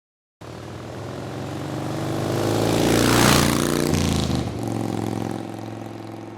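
A motor vehicle passing close by. Its engine note and tyre hiss swell to a peak about three seconds in, then the pitch drops and the sound fades as it moves away.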